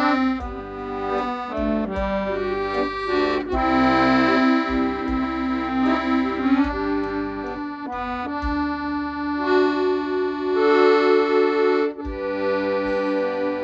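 Accordion playing a melody in held notes, with short low bass notes underneath.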